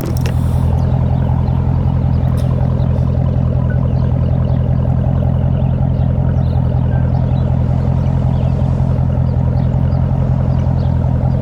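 Dodge Scat Pack's 6.4-litre HEMI V8 with an aftermarket loud exhaust, running steadily as a deep, even drone with no revving.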